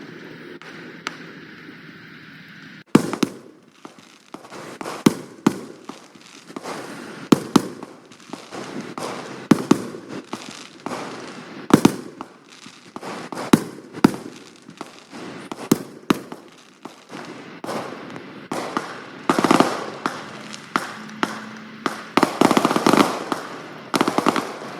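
Fireworks going off: repeated sharp bangs at irregular intervals from about three seconds in, with bursts of crackling near the end.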